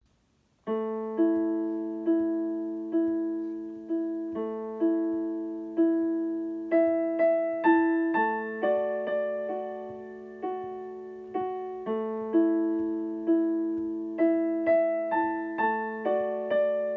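Piano playing a slow, gentle prelude, with notes struck about once or twice a second, each left to ring and fade. It starts just under a second in.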